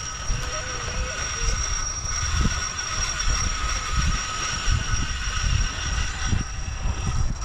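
Steady high whine of a radio-controlled scale crawler's electric motor and gears as it crawls, over a low, uneven rumble of wind on the microphone.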